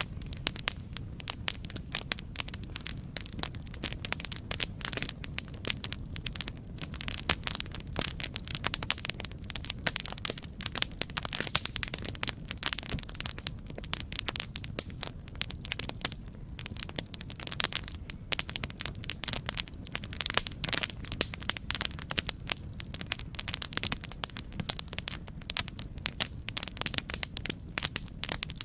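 Campfire crackling steadily: a dense run of sharp pops and snaps over a low rumble of burning.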